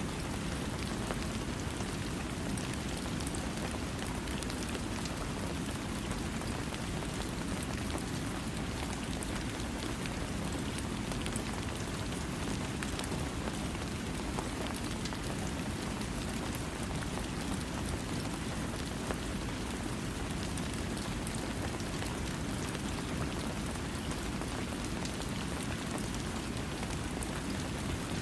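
Steady rain falling, an even hiss with a heavier low rush and many fine drop ticks, with no thunder.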